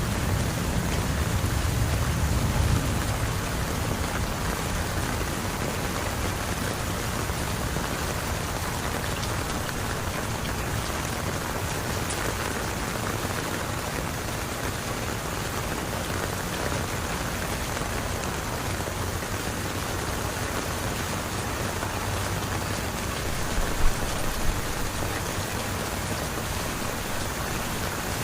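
Heavy rain falling steadily and splashing on surfaces, a dense, even hiss. A low rumble dies away over the first few seconds, and two short sharp taps come near the end.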